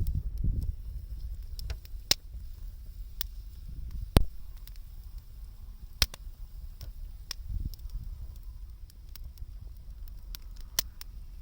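Wood fire burning, crackling with irregular sharp pops, the loudest about four seconds in, over a low rumble.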